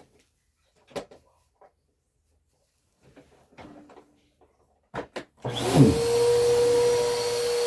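A few light knocks, then a vacuum cleaner switched on about five and a half seconds in: its motor spins up with a quickly rising whine and settles into a steady whine over a loud rush of air.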